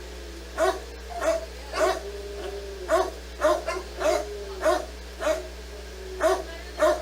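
A dog barking repeatedly, about two short barks a second and unevenly spaced, with a faint whining tone between barks around the middle.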